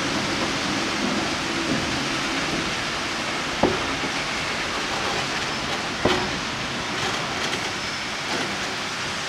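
Ballast train of hopper cars rolling slowly past with a steady rushing noise, broken by two sharp knocks about three and a half and six seconds in.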